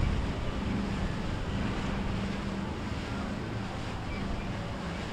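Wind buffeting the microphone over water noise, with the low drone of a passing boat's engine that fades in and out.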